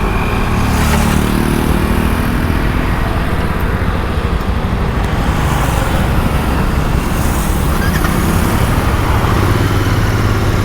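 Motorcycle engine pulling away, its pitch rising over the first few seconds as it accelerates, over a steady rushing noise.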